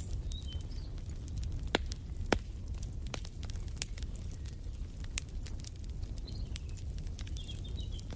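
Wood fire crackling over a steady low rumble, with many small snaps and two louder pops about two seconds in. Faint bird chirps come and go in the background.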